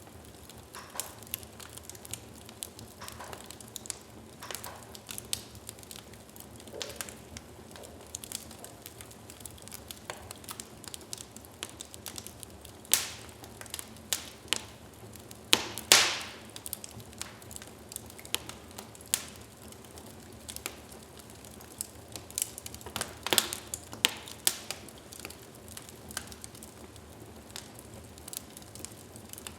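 Wood fire in a fireplace burning and crackling, with irregular sharp pops from the burning logs, a few louder snaps now and then over a low steady hiss.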